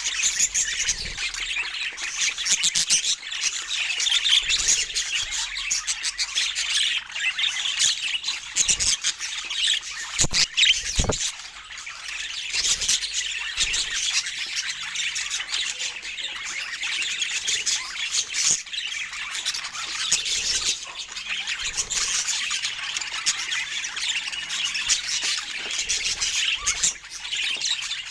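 Budgerigars chattering and squawking without a break, many high calls overlapping, with a few short knocks about ten seconds in.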